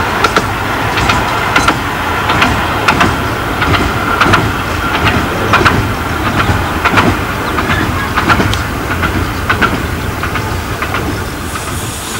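Miniature railway train running along the track, its wheels clicking over the rail joints about every two-thirds of a second above a steady low rumble.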